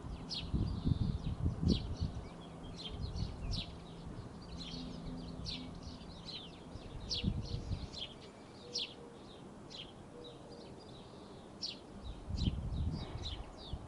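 Small birds chirping repeatedly, short high notes every half second or so, with low rumbles on the microphone in the first few seconds and again near the end.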